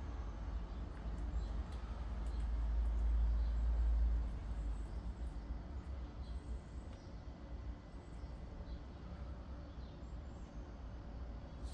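A cat chewing and tearing grass: faint, scattered crunching clicks over a low rumble that swells for a couple of seconds a few seconds in.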